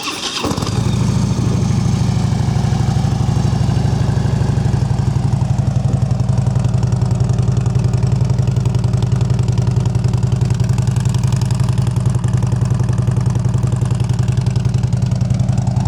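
2013 Harley-Davidson Road Glide Custom's 103 cubic inch V-twin with Vance & Hines slip-on mufflers, starting and catching within the first second, then idling steadily with an even, pulsing exhaust note.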